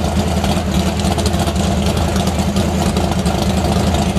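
Car engine with open exhaust headers idling steadily and loudly.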